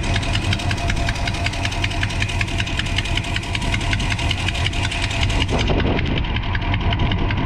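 1982 Chevy C10's 5.0 L V8 idling with a rapid, regular ticking several times a second over the engine's low running sound. The tick comes from the right bank: an exhaust leak that the owner traced to a broken exhaust manifold gasket.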